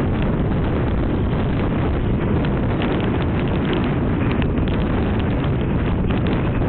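Strong wind buffeting the camera microphone: a steady, loud rumble with scattered crackles.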